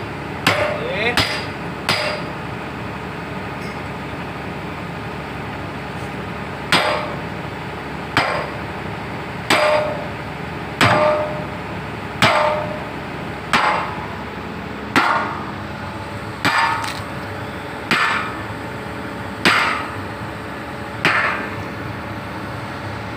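Hammer blows on steel, driving a bucket pin into an excavator's bucket bushings. Each blow has a short metallic ring. There are three quick strikes at the start, a pause, then a steady series of about one blow every second and a half.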